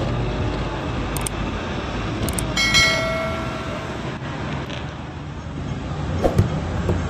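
Hong Kong double-decker tram running along its rails with a steady rumble, and a brief tone about three seconds in.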